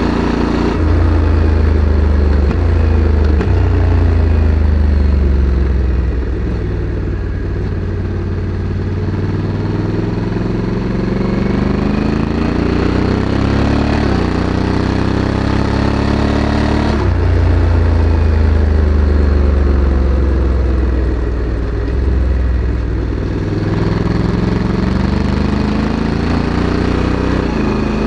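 Honda Africa Twin CRF1100 Adventure Sports DCT's parallel-twin engine running through its stock exhaust while riding, the engine note climbing and falling with speed. The pitch jumps suddenly at gear changes, one clearly about two-thirds of the way through.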